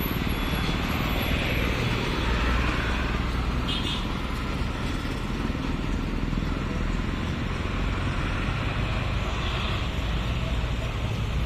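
Highway traffic with heavy trucks passing: a steady low engine rumble under continuous road and tyre noise, with a brief high chirp about four seconds in.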